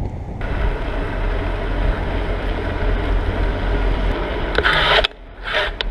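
Wind buffeting the microphone of a camera riding along on a moving bicycle, a steady low rushing mixed with road noise. It drops off suddenly about five seconds in.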